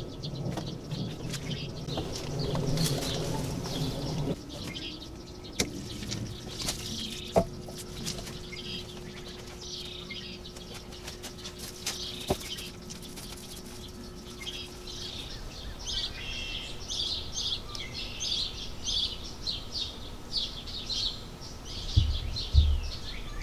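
Small birds chirping over and over, busiest in the last several seconds. A few sharp clicks stand out in the middle, and there are low thumps near the end.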